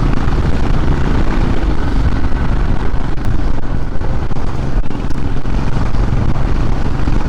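Royal Enfield Himalayan Scram 411 single-cylinder engine running steadily as the motorcycle is ridden, a low continuous rumble mixed with road and wind noise.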